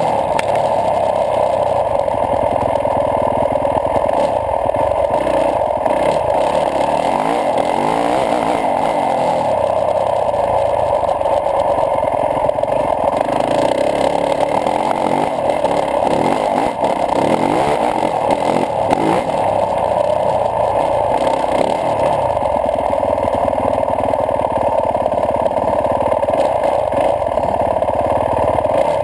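2012 Yamaha YZ450F dirt bike's four-stroke single-cylinder engine running under load on the move, its revs rising and falling with the throttle through the middle stretch.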